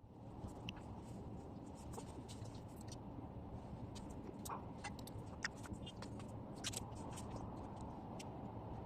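Steady low background noise with many light, scattered clicks and taps of small objects being handled.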